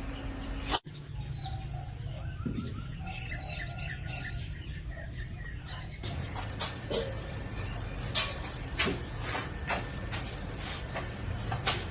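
Small birds chirping in short repeated calls over a low steady hum, followed by scattered clicks and taps over a faint high whine in the second half.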